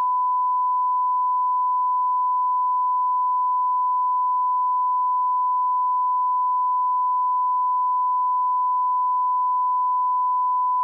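Steady 1 kHz sine-wave line-up tone at −18 dBFS, one unbroken pitch held at a constant level: the reference level used to align audio equipment.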